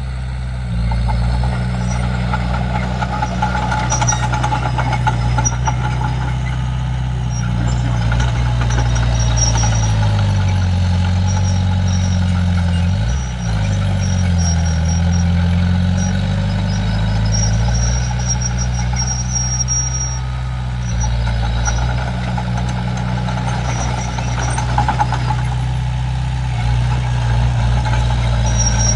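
Komatsu D31P crawler bulldozer's diesel engine running steadily while working. About halfway through, its pitch dips twice and recovers, as under heavier load. Short high squeaks come and go throughout.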